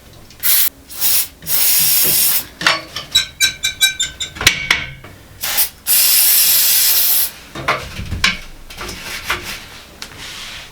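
Aerosol lubricant spray can hissing in several bursts onto the joints of a metal slatted bed frame; the longest bursts run about two seconds each. Between them come a quick run of short, high squeaky chirps and a few light knocks.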